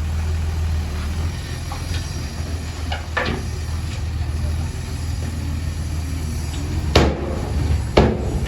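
Heavy diesel earthmoving engine running steadily under load, with two sharp knocks about a second apart near the end.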